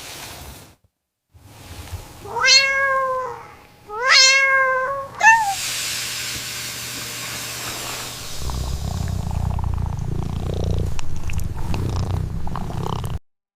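A domestic cat meows twice, then gives a short chirp, followed by a few seconds of hissing noise. After that comes a low, steady purr lasting about five seconds, which cuts off suddenly.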